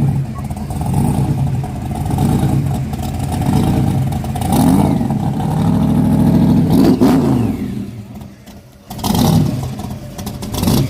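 Car engine revved repeatedly, the pitch rising and falling several times. It is held high for a second or so, then dies down about eight seconds in, with two short blips of the throttle near the end.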